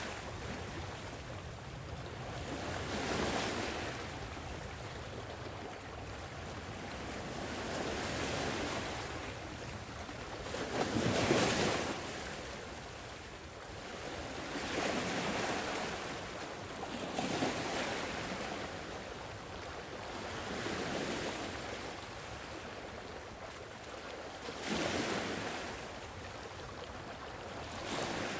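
Sea waves washing onto a shore, the surf swelling and ebbing every few seconds. The largest waves come about eleven seconds in and again near the end.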